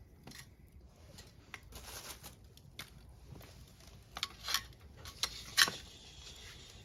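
Scattered sharp clicks and snaps at a wood-and-pine-cone campfire, with the loudest few coming about four to six seconds in.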